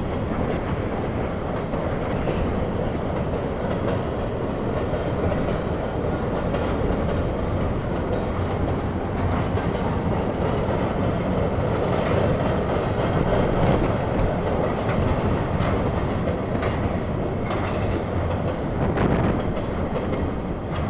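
Empty flatcars of a freight train rolling past: a steady rumble of steel wheels on rail, with scattered clicks as the wheels cross rail joints.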